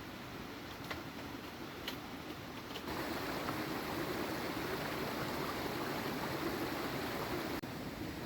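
Heavy rain falling steadily, a continuous hiss that becomes louder about three seconds in and drops back abruptly near the end, with a few faint ticks early on.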